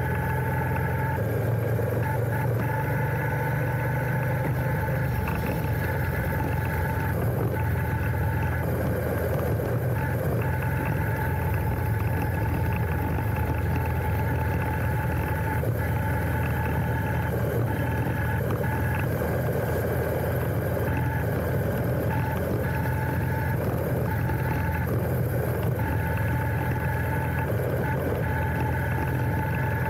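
Royal Enfield Interceptor 650's parallel-twin engine running steadily at an even pitch, with no change in revs.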